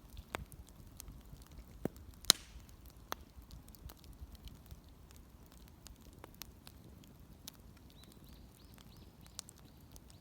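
Wood bonfire crackling, with scattered sharp pops, the loudest about two seconds in.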